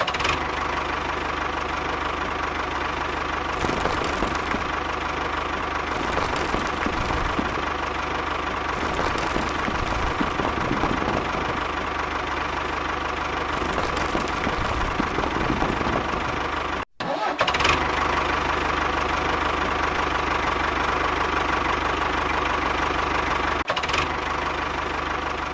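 An engine running steadily at an even pace, with a brief dropout about two-thirds of the way through.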